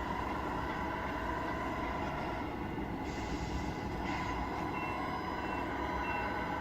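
Tamiya RC truck's sound unit playing a steady diesel truck engine sound, with a brief hiss about three seconds in; near the end a reversing beeper starts, a short beep roughly every half second or so.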